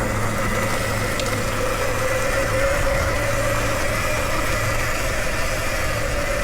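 Nexvey Flash electric dirt bike's motor whining at a steady pitch while riding, over rumbling riding noise.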